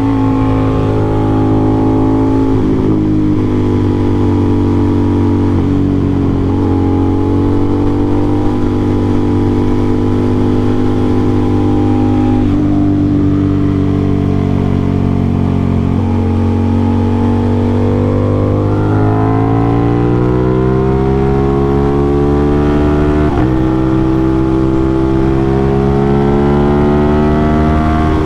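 Aprilia RS660 parallel-twin engine through an aftermarket SC-Project CRT exhaust, riding under way. It holds fairly steady revs with a few small changes at first, then pulls up through the revs over several seconds, drops suddenly as it shifts up, and climbs again near the end.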